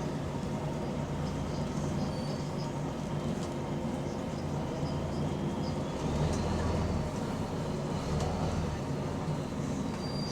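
Diesel engine of a Volvo B9TL double-decker bus heard from on board: a steady low drone that grows louder for about a second, six seconds in. The bus has an exhaust leak.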